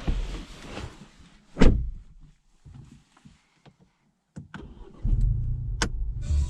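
Car door shutting with a heavy thump, a few sharp clicks in the quiet cabin, then the Ford Fiesta ST MK8's 1.5-litre turbocharged three-cylinder engine starting about five seconds in and settling into a steady low idle.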